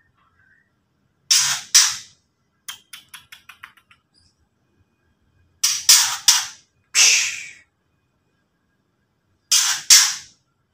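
White-rumped shama (murai batu) giving its harsh, rasping 'ketrekan' chatter in short bursts, mostly two or three in quick succession. A quick run of dry ticking notes comes about three seconds in. It is the aggressive call used to provoke rival birds.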